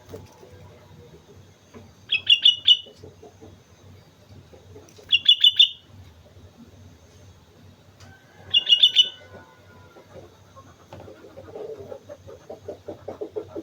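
Sooty-headed bulbul (kutilang) singing three short, loud phrases of quick bubbly notes, about three seconds apart. A low, rapid pulsing sound starts near the end.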